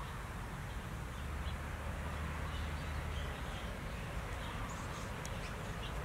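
Faint, short bird chirps over a steady outdoor background with a low rumble, the chirps coming more often near the end.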